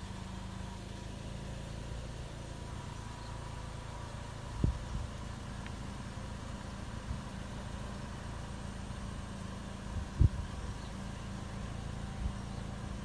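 A car engine idling steadily as a sedan creeps slowly at walking pace, a low hum throughout. Two dull thumps cut through it, a small one partway in and a louder one near the end.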